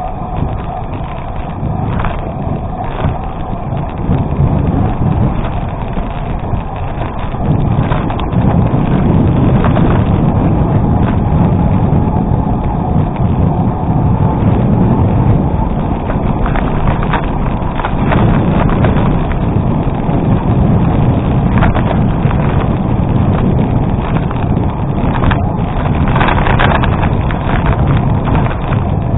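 Wind buffeting the microphone and bicycle tyres rumbling over a gravel road while riding, louder from about seven seconds in, with scattered rattles and knocks.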